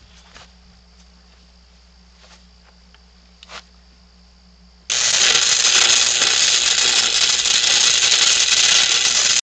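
Welding arc crackling steadily as a bead is laid, starting suddenly about five seconds in and cutting off abruptly near the end; before it, a few faint clicks and ticks.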